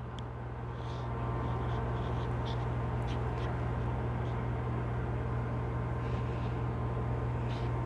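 A steady low hum under a constant background noise, with a few faint ticks scattered through it.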